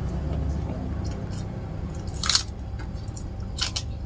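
A person chewing a mouthful of crispy fried catfish close to the microphone, with a sharp crackle about two seconds in and a few small clicks near the end.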